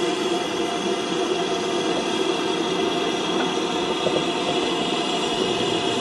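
Train's steady running noise: an even rumble with a faint steady hum over it.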